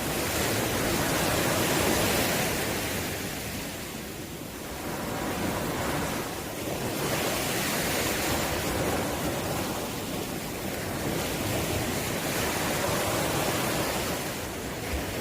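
Ocean waves breaking and washing on the shore, a steady rush that swells and eases over several seconds, with some wind on the microphone.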